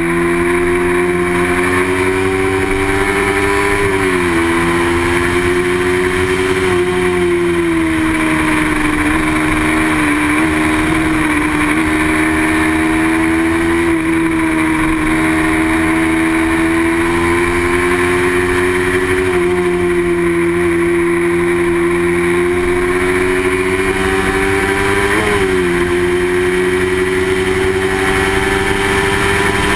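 Racing motorcycle engine running hard at steady high revs, its pitch dipping briefly and climbing back several times as the rider shifts gears.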